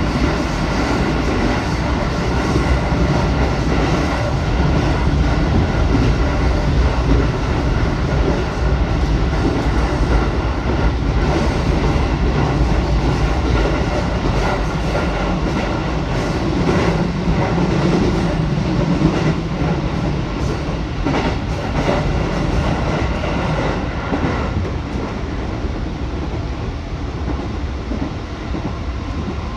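Musashino Line electric train running, heard from inside at the front: a steady rumble of motors and wheels on the rails, with scattered clicks from the rail joints.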